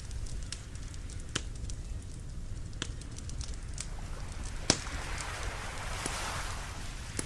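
Wood campfire crackling, with scattered sharp pops; the loudest comes about halfway through. Under it runs a steady low rumble, and a hiss swells and fades in the last couple of seconds.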